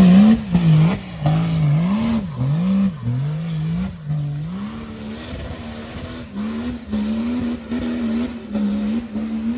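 Off-road 4x4's engine revving up and down several times in quick succession, then holding a higher, steadier pitch with small wobbles.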